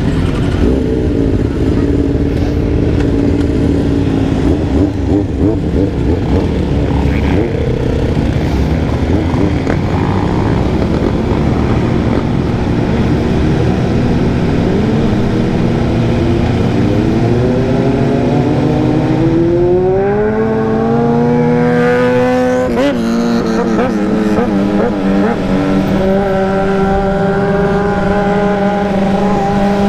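Dirt bike engine under way: its pitch climbs steadily for several seconds as it accelerates, breaks off sharply at a gear change, then holds a steady note.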